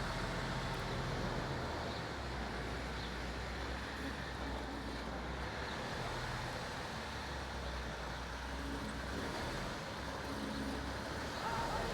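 Diesel locomotive engine running with a steady low hum.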